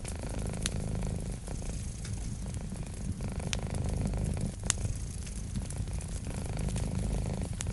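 A cat purring, a low rapid rumble that swells and eases in turns with its breathing, with a few sharp pops from a crackling wood fire.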